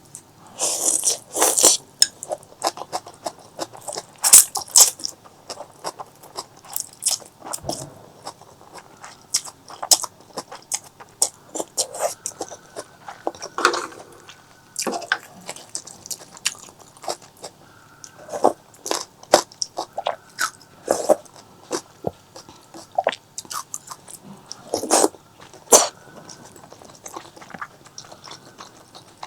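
Close-miked eating sounds: biting and chewing with many sharp, irregular mouth clicks and wet smacks, a few louder bites standing out about a second in, around four seconds in and near the end.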